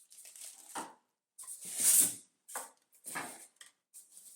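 Packaging and vacuum accessories being handled as they come out of the box: a run of short rustling and knocking noises, the loudest about two seconds in.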